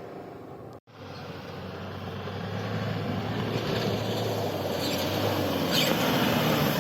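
Diesel 4x4 SUV engine running under load off-road, growing steadily louder after a brief cut just before a second in.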